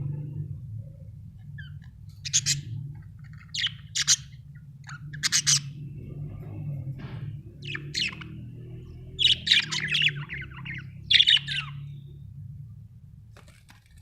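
Pet budgerigars chirping in a string of short, high calls, about a dozen of them from a couple of seconds in until near the end, over a steady low hum.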